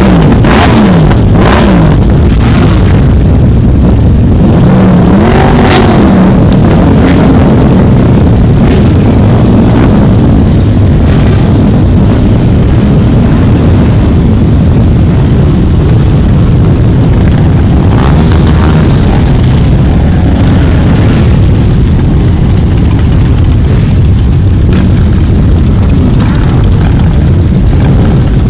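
A stream of motorcycles riding past, loud and continuous, their engines revving with pitch rising and falling as bikes pass, most plainly in the first few seconds, over a constant heavy rumble.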